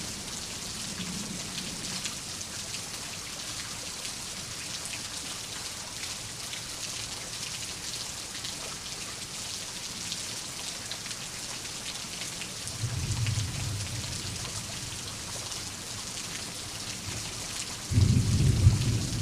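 Steady rain pattering, with fine drop ticks throughout. A low roll of thunder comes about two-thirds of the way in, and a louder rumble of thunder breaks near the end.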